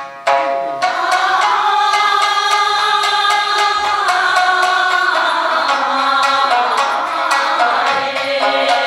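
A group of voices singing a Japanese folk song (min'yo) together, accompanied by plucked shamisen. The shamisen is heard alone for a moment before the singing comes in just after the start.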